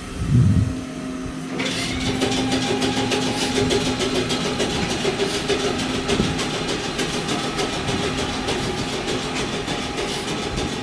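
Randen tram car running on rails: a steady hum with motor tones and wheel noise, with a low thump about half a second in.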